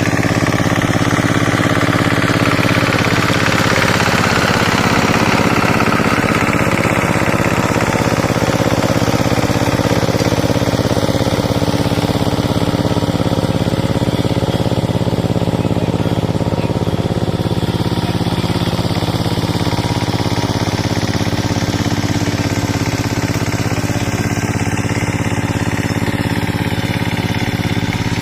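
Kamco power tiller's single-cylinder diesel engine running steadily at an even pitch while the tiller puddles deep mud.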